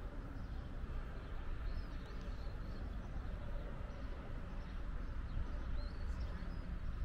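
Faint small-bird chirps, high-pitched, about two seconds in and again near six seconds, over a steady low rumble.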